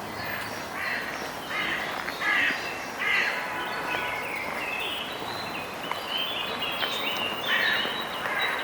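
Crows cawing: a series of harsh caws in quick succession, then another burst near the end, with faint calls of smaller birds behind.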